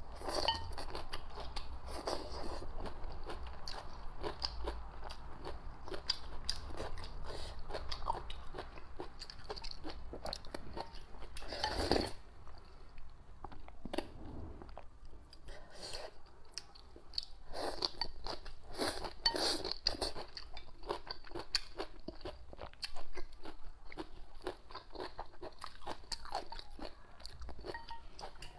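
A person chewing a mouthful of stir-fried leafy greens: many small crunches and clicks in an irregular run.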